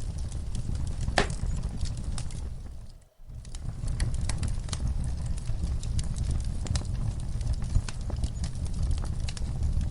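Wood fire in a fireplace crackling and popping, with irregular sharp snaps over a low rumble of the flames. The sound fades out to near silence for a moment about three seconds in and then comes back.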